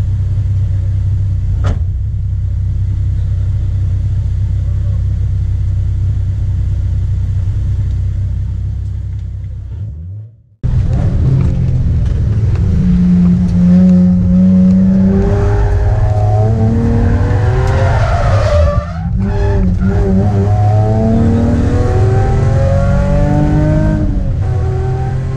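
Car engine heard from inside the cabin: it idles steadily, then after a sudden cut it runs hard on track, its pitch climbing under acceleration and falling through gear changes, with a brief dip about two-thirds of the way through.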